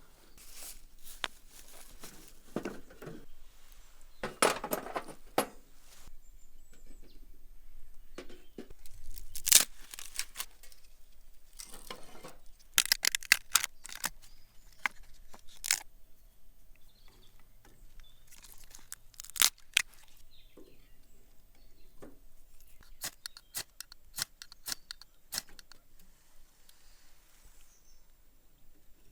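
Irregular sharp snaps, cracks and rustles of dry twigs and kindling being broken and handled to build a campfire.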